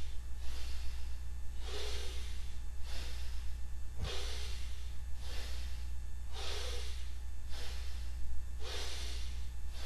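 A person breathing deeply and audibly in a steady rhythm, inhales and exhales alternating about once a second, paced with the cat-cow back stretch. A steady low hum lies underneath.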